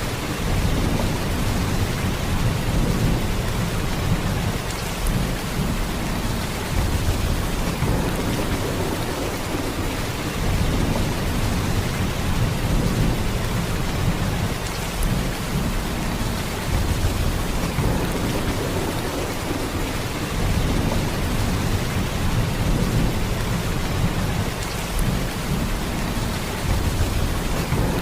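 Heavy rain falling in a steady downpour, a continuous hiss with a deep low rumble beneath it, swelling and easing slightly every few seconds.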